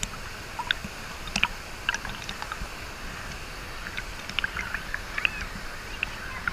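River water running and lapping around a canoe, with scattered small splashes, drips and light clicks over a steady low rush.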